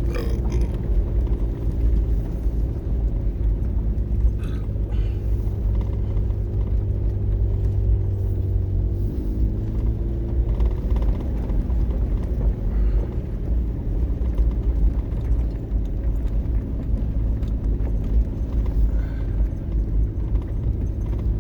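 Car engine and road rumble while driving, a steady low drone whose engine note shifts in pitch about nine seconds in.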